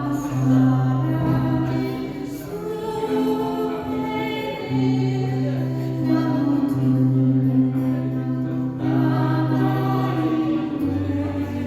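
A woman singing a slow Korean ballad over an accompaniment of steady, held bass notes and chords.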